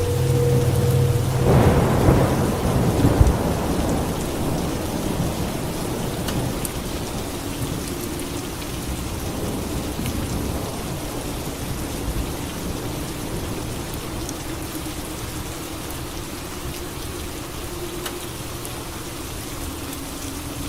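Steady rain falling with a thunderclap about two seconds in that rumbles and slowly dies away.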